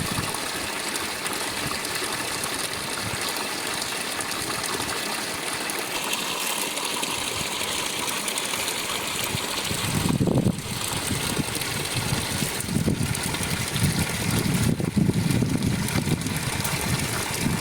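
Steady rushing noise, with low rumbles welling up about ten seconds in and again near the end.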